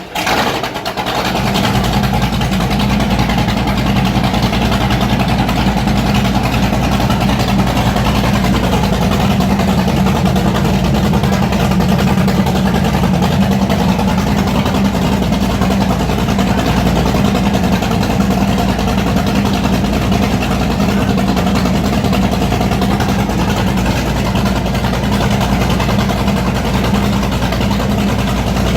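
Mercury Racing 565 HP V8 marine engine catching on a cold start within the first second, then idling steadily with a deep, even note.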